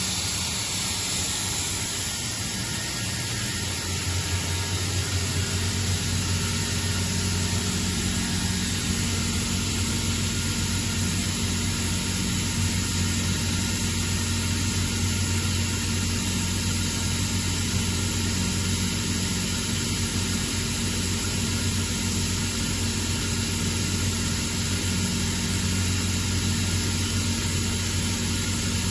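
Atlas Copco ZT132FF oil-free two-stage rotary screw air compressor running, a steady low hum over a constant hiss. The hum grows a little stronger about four seconds in, then holds steady.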